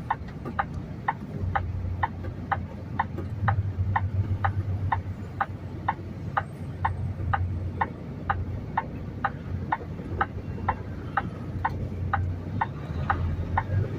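Semi-truck's turn signal clicking steadily in the cab, a bit more than two clicks a second, over the low hum of the idling diesel engine, while waiting to merge into the next lane.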